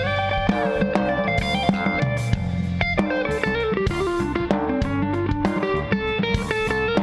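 Live band music without vocals: an electric guitar plays a lead line with sliding, bent notes over bass and a drum kit.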